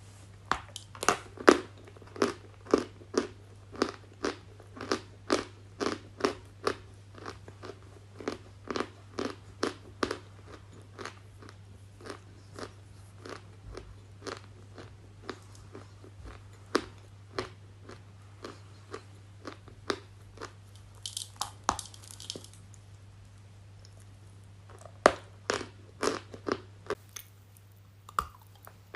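Close-miked crunching of something brittle being bitten and chewed, about one to two crisp crunches a second. The crunches are strongest at first, sparser in the middle with a short crumbling crackle, and pick up again near the end.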